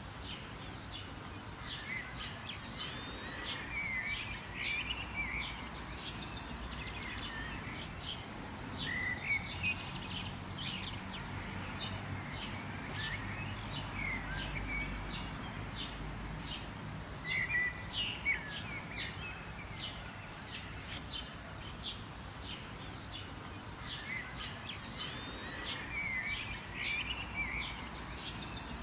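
Several wild birds chirping and singing: a busy run of quick high chirps and warbling phrases, over a low steady background rumble.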